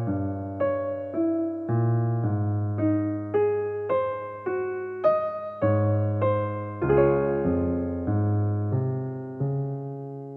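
Background piano music: a slow melody of single notes, about two a second, over held bass notes, ending on a chord that fades away near the end.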